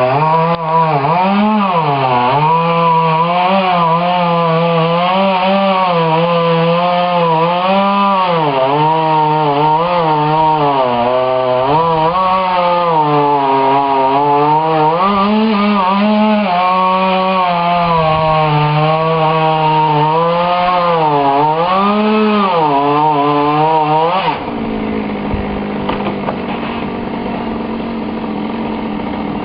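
Two-stroke petrol chainsaw cutting wood, its engine pitch rising and falling as it works under load. About 24 seconds in it drops to a quieter, steady idle.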